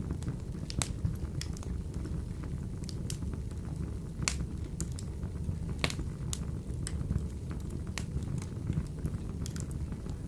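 Wood fire burning in a wood-burning stove: a steady low rumble of the flames with irregular sharp crackles and pops from the burning logs.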